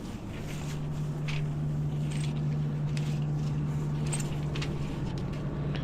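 An engine idling with a steady low hum, with irregular scuffing footsteps over it.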